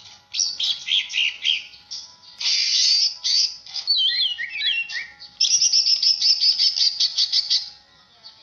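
A songbird of the kind called 'cucak' singing a fast, varied song of high chirps and whistled glides. A rapid trill of about eight notes a second runs from the middle of the song to near the end.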